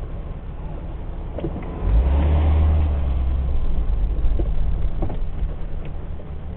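Car engine and road noise, a low rumble that swells sharply about two seconds in and then slowly eases.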